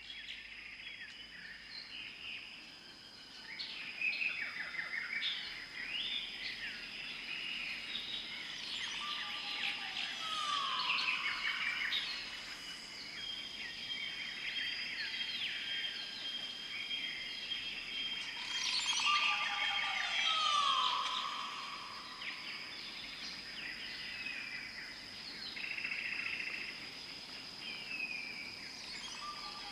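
A chorus of many songbirds chirping and trilling over a steady, high insect-like drone. A longer call sliding down in pitch comes back about every ten seconds.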